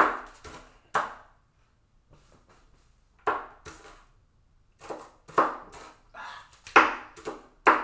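A knife chopping an onion on a cutting board: uneven, hard knocks, about two to three a second, with a pause of a second or two near the start.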